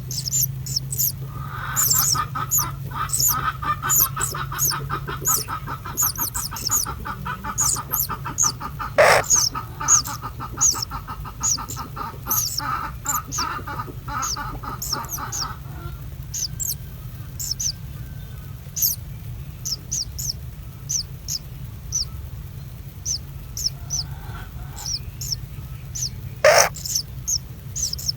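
Birds chirping over and over in short, high notes, with a rapid pulsing call through the first half and two louder, sharp calls. A steady low hum runs beneath.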